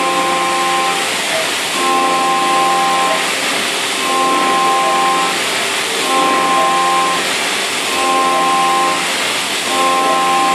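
CNC mill's 3-flute endmill trochoidal-milling 6082 aluminium at 8,000 rpm: a pitched cutting whine that swells and drops away about every two seconds, six times, as the cutter sweeps into each loop of its circular toolpath, over a steady hiss.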